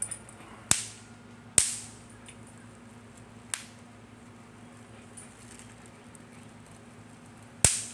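Snap-pop novelty fireworks (snappers) cracking one at a time: four sharp pops, the second and the last, near the end, the loudest, the third faint.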